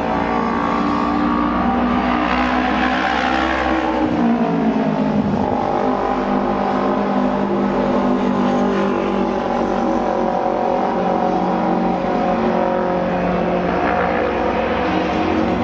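Auto race motorcycles with open twin-cylinder engines running hard together. Their pitch drops about four seconds in and then climbs back.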